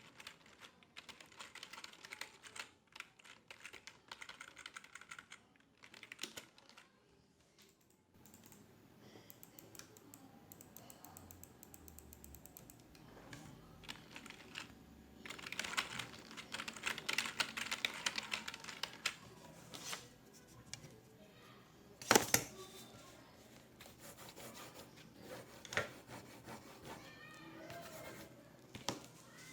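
Typing on a computer keyboard in irregular runs of quick keystrokes, busiest a little past the middle, with one sharper, louder click about two-thirds of the way through.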